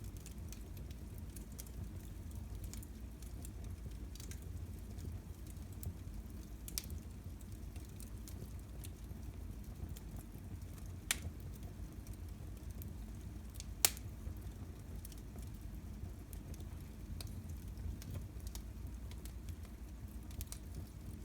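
Fire burning in a fireplace: a low steady rumble with scattered small crackles, and two sharper pops a few seconds apart past the middle.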